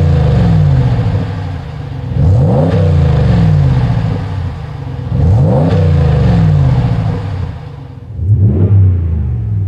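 RAM 1500's 5.7L Hemi V8 exhaust through a Flowmaster FlowFX straight-through muffler, revving repeatedly. Each rev climbs quickly and then falls back slowly, about every three seconds, giving a deep, loud exhaust note.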